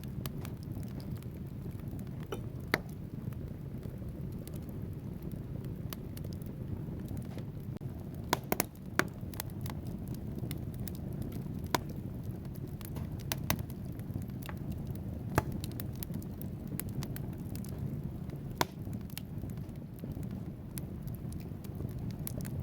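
Wood fire burning in a fireplace: a steady low rumble of flames with sharp crackles and pops from the burning logs, a quick cluster of pops about eight seconds in and single loud ones scattered after.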